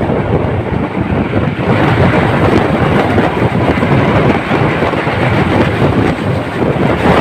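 Moving passenger train: a loud, steady rumble of the carriage running along the rails.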